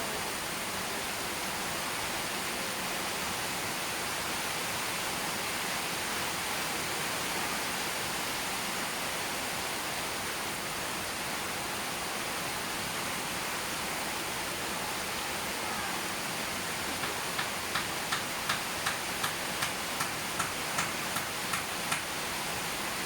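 Steady rain, an even hiss. Near the end a run of about a dozen sharp, evenly spaced ticks, a little over two a second, sounds above the rain for about five seconds.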